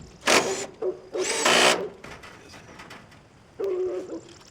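Power drill driving screws into metal siding panels in two short bursts, the second one longer.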